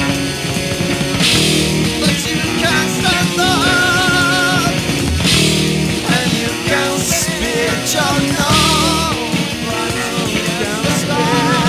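Rock band playing: guitars, bass and drums with cymbal crashes every few seconds, and a high lead melody that wavers and bends.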